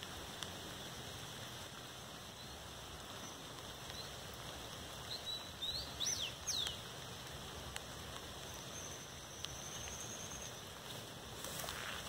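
Songbirds calling over steady outdoor background noise: a cluster of quick high chirps about halfway through, then a thin high trill lasting about two seconds.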